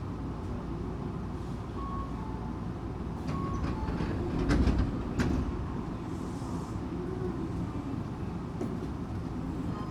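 Tokyu 8500 series electric train with Toyo-built traction motors running along the track: a steady rumble, with a few sharp clacks and a brief louder stretch about halfway through.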